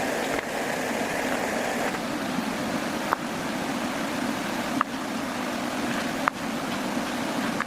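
A steady rushing noise, with three short sharp knocks at intervals of about a second and a half in the second half.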